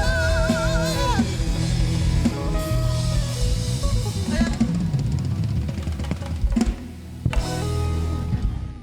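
Live band music with a drum kit playing under a held, wavering sung note for the first second or so, then drums and bass carrying on, with two crashes near the end before the music dies away.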